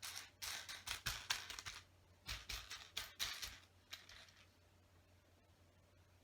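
Loose plastic Lego pieces clicking and rattling as hands sift through them, in quick irregular clatters that stop about four seconds in.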